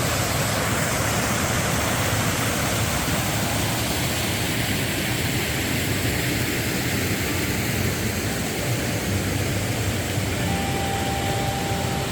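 Mountain valley stream rushing, a steady, full sound of flowing water.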